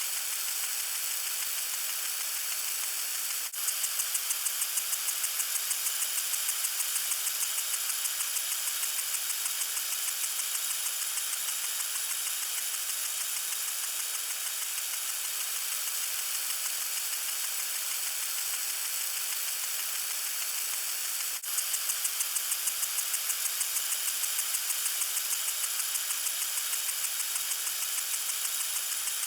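Lawn sprinkler spraying water: a steady, hissing spray. Twice, after a brief dip, a fast pulsing patter of about four to five beats a second comes in over the hiss and slowly fades.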